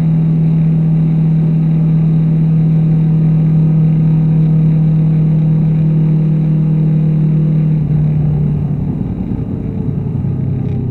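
Honda VFR800's V4 engine and exhaust running at steady revs under way. About eight seconds in, the note drops in pitch and turns rougher as the revs come down.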